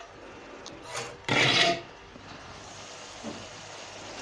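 Minced beef (keema) sizzling gently in a nonstick wok, its cooking water nearly dried off. About a second and a half in, a loud rasping scrape of a spoon against the pan, with a couple of lighter scrapes around it.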